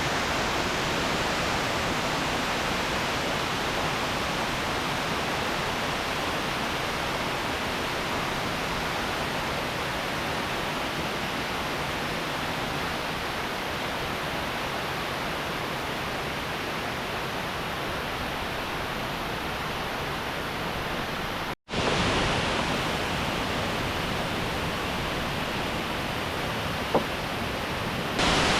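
Waterfall rushing steadily, with a moment of silence about three-quarters of the way through where the sound cuts out and resumes, and a small click near the end.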